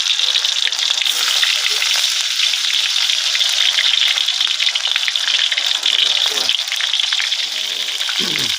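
Food sizzling and crackling in hot oil in a wok just after it has been added, a steady hiss with constant fine spitting.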